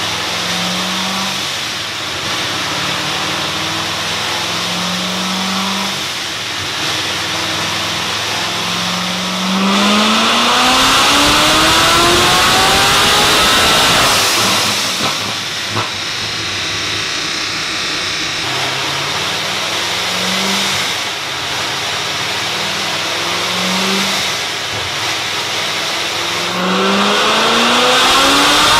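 Supercharged 6.2-litre V8 of a roughly 1000 hp C7 Corvette Z06 blipping the throttle a few times, then accelerating hard at full throttle with its pitch climbing for several seconds before dropping back. It blips again and starts another rising full-throttle run near the end, over a steady hiss.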